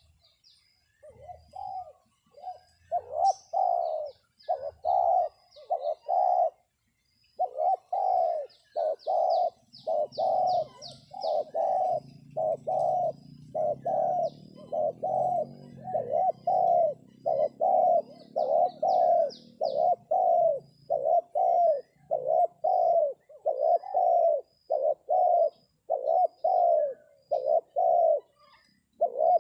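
Spotted dove cooing over and over in short notes, about two a second, with a brief break about six seconds in. A small bird's high chirps sound over it, including two quick trilled runs.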